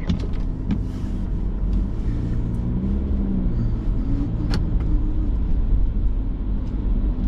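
Car driving, heard from inside the cabin: steady engine and road rumble whose engine note rises and falls slightly, with a few brief clicks.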